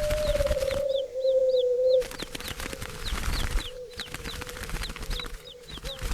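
A flock of birds: a dense clatter of wing flaps, a drawn-out low coo in the first two seconds, and quick high chirps repeating several times a second.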